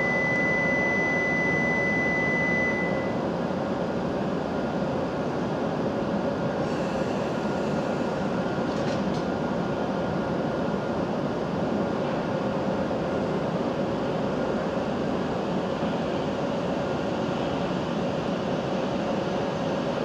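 Steady hum and rumble of a Hokuriku Shinkansen train standing at the station platform. A thin high tone sounds for the first three seconds or so and then stops.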